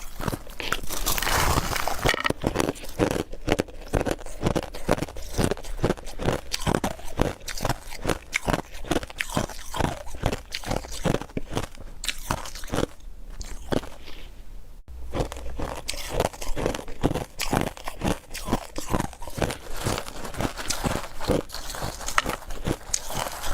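Close-miked chewing of refrozen powdery ice: a steady run of soft crunches, about two to three a second, with a brief lull about halfway through.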